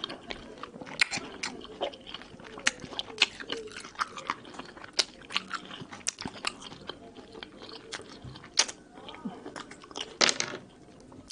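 Mandarin segments being bitten and chewed: wet, juicy crunching with many sharp little clicks and smacks, and a louder burst of chewing near the end.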